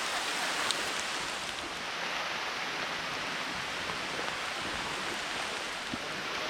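Steady rain falling, an even hiss with a few faint drop ticks about a second in.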